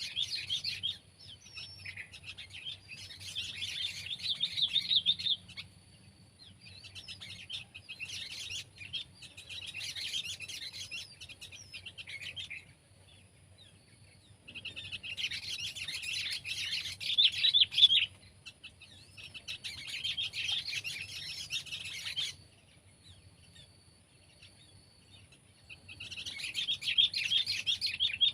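Sooty-headed bulbul singing: bouts of rapid, chattering song a few seconds long, broken by short pauses, six bouts in all.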